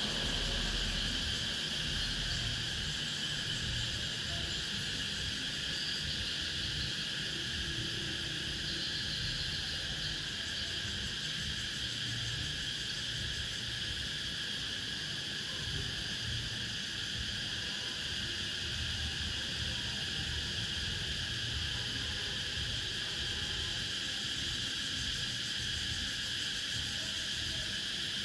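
A chorus of cicadas singing steadily, without a break.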